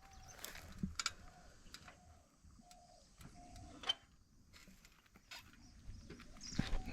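A bird repeating a short, even call note over and over, roughly one to two a second, with scattered clicks and knocks close by.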